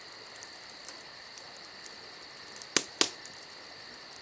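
Steady, high-pitched insect chirring, cricket-like, with two sharp clicks close together a little before the end.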